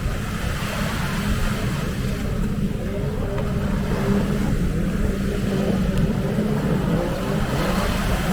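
Engine noise, a steady low rumble that holds throughout, with faint voices behind it.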